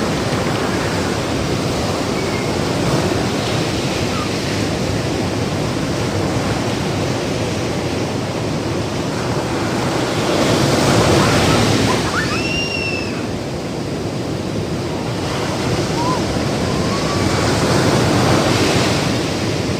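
Ocean surf breaking and washing on the shore, a steady rushing wash that swells louder about halfway through and again near the end.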